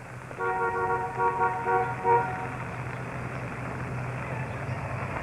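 A two-tone car horn honking in a quick series of short toots for about two seconds. A vehicle engine hums steadily underneath.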